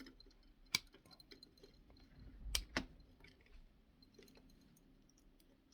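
Clicks and handling noise from fitting crimped wire connectors onto small switch terminals: one sharp click under a second in, then two more close together about halfway through, with faint ticking in between.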